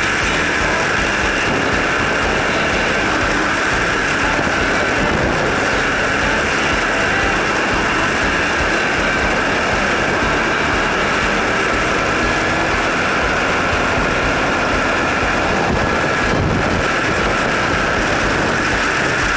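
Kawasaki W800's air-cooled parallel-twin engine running steadily under way through an aftermarket muffler, mixed with wind and road noise on a camera mounted low on the front engine guard.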